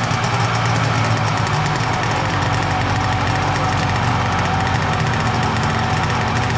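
Honda MVX250F's two-stroke V3 engine idling steadily while warming up before a ride.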